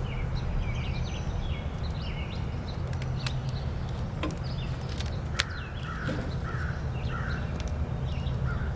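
Wild birds chirping and calling outdoors, with a run of short repeated calls in the second half, over a steady low hum. A few sharp snaps cut through, the loudest about five and a half seconds in.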